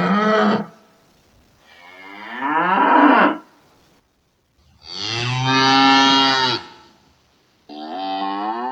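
Cattle mooing: a short moo at the start, then three longer moos of one to two seconds each, with short pauses between them. The last moo starts near the end and carries on past it.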